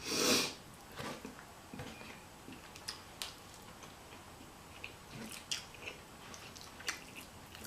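Close-miked chewing and small wet mouth clicks of someone eating a burrito bowl, opening with a short breathy burst of noise.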